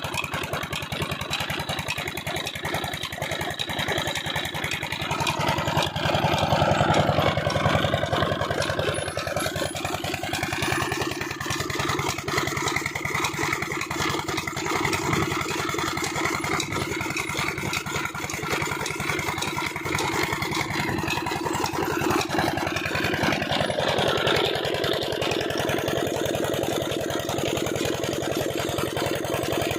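Old Peter diesel engine running steadily with a fast, even chugging while it drives a chaff cutter; a higher whirring over it swells and fades partway through.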